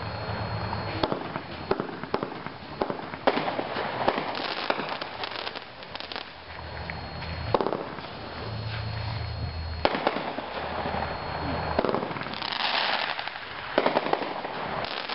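A 500-gram consumer repeater cake, Big Beetle Battle, firing: a run of sharp shots and bursts at irregular intervals, with a spell of dense crackling about three quarters of the way through.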